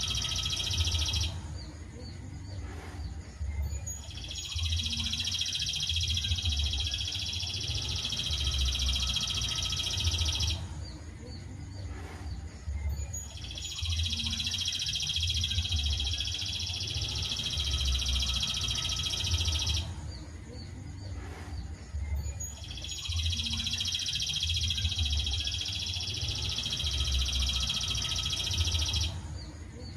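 Songbird tutor recording: dense, high, continuous bird song in long phrases of about six seconds, repeating at even spacing with short pauses between, over a low rumble.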